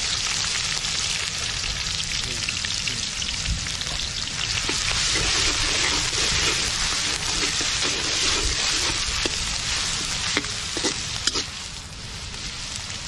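Pounded ginger-garlic paste sizzling in hot oil in an iron kadai, a dense frying hiss that eases off near the end. A metal slotted spoon stirs it, with a few clicks against the pan about ten to eleven seconds in.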